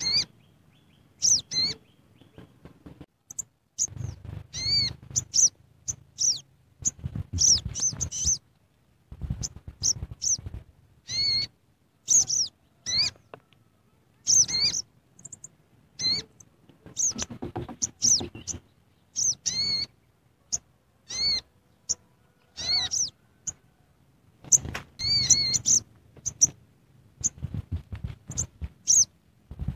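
A bird chirping: many short, high, arching chirps in irregular clusters, with a low rumble under some stretches.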